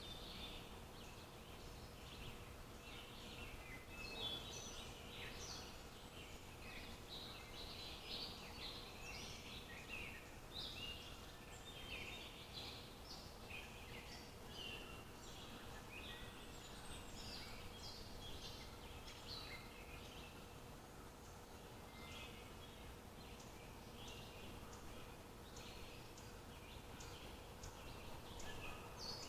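Songbirds chirping and twittering, many short calls overlapping without pause, over a faint steady hum.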